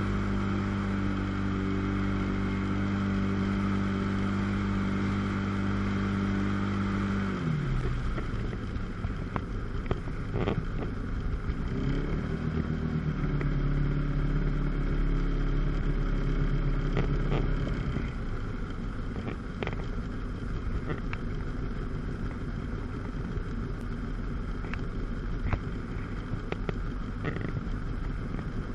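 1997 Sea-Doo GTS personal watercraft's two-stroke 720 engine running steadily, then dropping in pitch as the throttle is let off about seven seconds in. It revs up again around twelve seconds and holds steady until about eighteen seconds, then falls away to a low idle under water slaps and wind.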